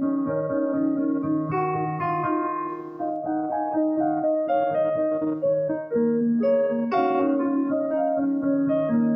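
Instrumental keyboard music in a piano sound: held chords with a slow melody of single notes moving over them, with higher notes coming in about a second and a half in and again about seven seconds in.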